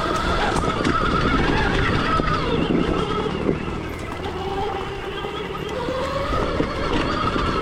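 Stark Varg EX electric dirt bike's motor whining while riding, its pitch rising and falling with the throttle, over rumbling noise from the tyres on the rough trail.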